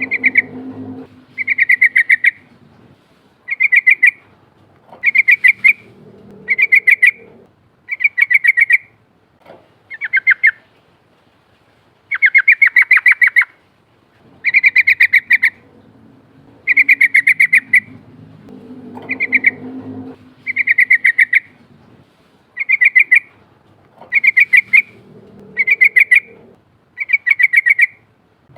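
Yellow-vented bulbul (trucukan) singing: short, bubbly, rapid-note phrases repeated every second or two, about sixteen in all.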